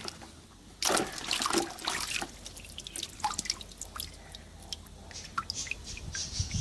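Water splashing and dripping as a plant's roots are rinsed under running water, starting suddenly about a second in and going on as scattered splashes and drips.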